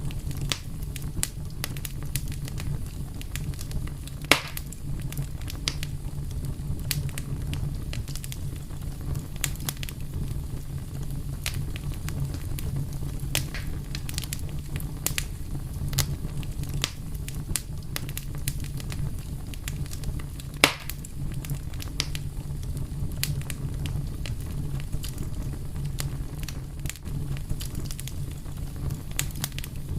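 Wood fire crackling: a steady low rumble of flame with frequent sharp snaps and pops, two of them louder, about four seconds in and near twenty-one seconds.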